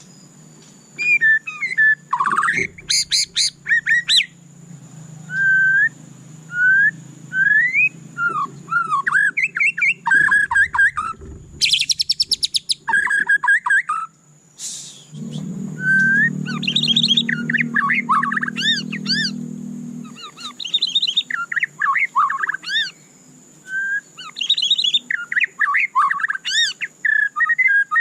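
White-rumped shama singing a long, varied song of clear whistled notes that sweep up and down, broken by short phrases and a fast rattling trill about twelve seconds in.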